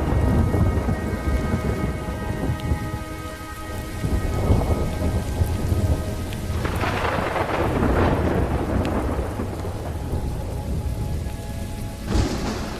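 Thunderstorm with steady rain and rolling thunder, which swells from about six and a half seconds to nine seconds and rumbles again near the end. Underneath are sustained notes of slowed, reverb-heavy instrumental music.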